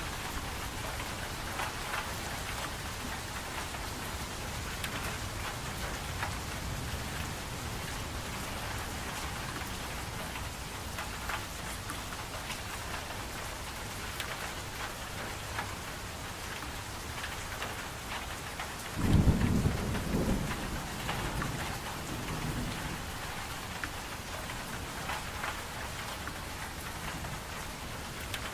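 Steady rain falling, with a clap of thunder about two-thirds of the way through that starts suddenly as a low rumble and fades over a few seconds.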